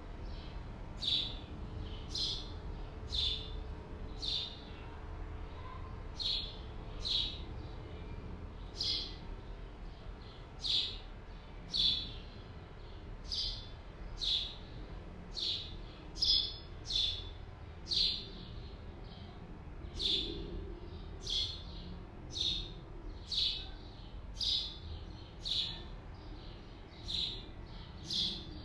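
A bird giving a short, high chirp over and over, about once a second, over a steady low rumble.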